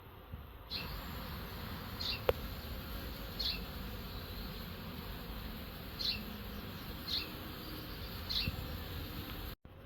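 Honeybees buzzing around a beehive: a steady hum of many wings.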